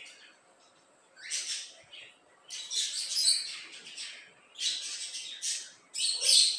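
Small birds chirping and calling in short, irregular high-pitched bursts, about a dozen over a few seconds, with brief quiet gaps between them.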